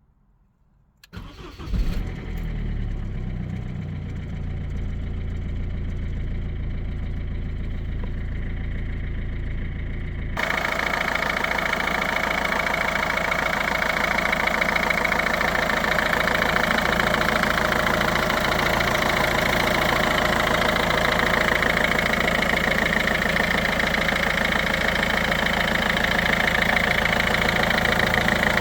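Citroën C3's 1.4 HDi four-cylinder turbodiesel being cranked and catching after about a second, then idling steadily. About ten seconds in, the sound changes abruptly and becomes louder and brighter as the idle carries on.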